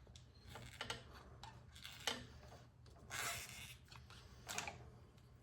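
Faint clicks and scrapes of a screwdriver prying a fuel line off a snowblower carburetor's fuel fitting, with short scraping sounds about three seconds and four and a half seconds in.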